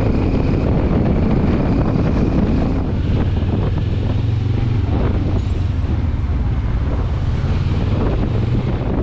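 Benelli TRK 702 parallel-twin engine running steadily while riding, with heavy wind noise on the microphone.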